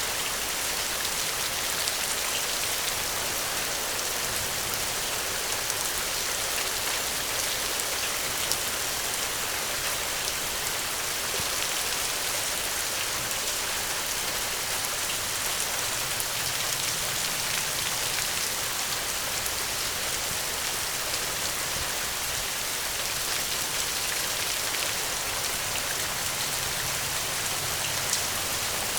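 Steady heavy rain falling, an even hiss with a few sharp ticks now and then.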